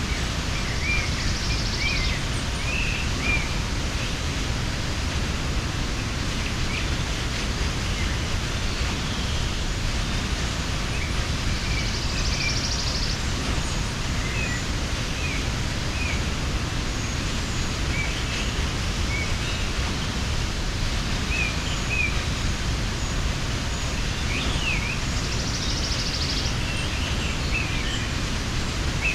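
Waterfall rushing steadily, with small birds chirping on and off over it and a high buzzy trill three times, about every twelve seconds.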